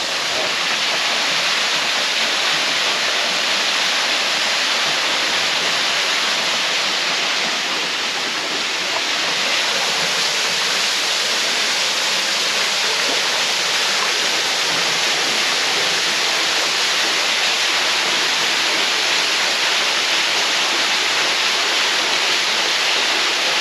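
Waterfall pouring into a deep pool, a steady, loud rush of falling water.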